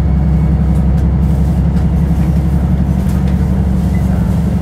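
Steady low rumble of a train running, heard from inside the passenger car, with faint occasional clicks over it.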